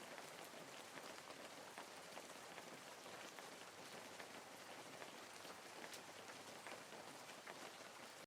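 Faint, steady pattering of water drops, many small ticks over a soft hiss.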